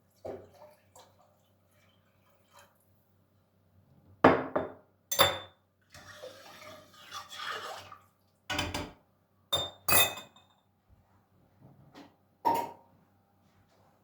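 Dishes and glassware being handled in a kitchen: a series of separate clinks and knocks, with a short spell of splashing water about six seconds in.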